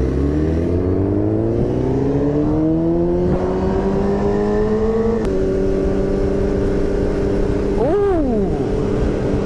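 Motorcycle engine accelerating, its pitch climbing steadily for about five seconds, then stepping down at a gear change and holding steady at cruising speed. A short rise and fall in pitch comes near the end.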